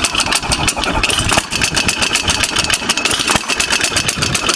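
Antique Ideal hit-and-miss lawn mower engine running with a fast, even mechanical clatter, about ten ticks a second, and a few heavier knocks about two seconds apart. It has a clanking that the owner cannot place and suspects may be the governor weight.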